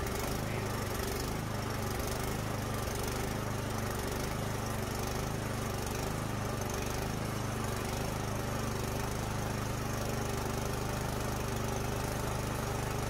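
Craftsman 24-inch snowblower's single-cylinder engine running at a steady speed. It was got going by spraying carburetor cleaner into the spark plug hole after the machine sat unused all summer and would not start.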